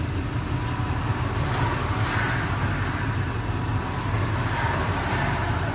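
Road noise heard from inside a moving car: a steady low rumble of engine and tyres under a hiss that swells twice, about two and five seconds in.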